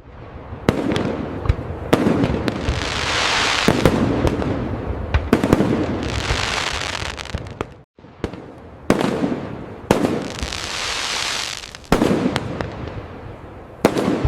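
Fireworks display: aerial shells bursting with sharp bangs, each followed by a long crackling fizz as the stars burn out, the bursts overlapping several times over. The sound cuts out completely for a split second about halfway through, then the bangs and crackle resume.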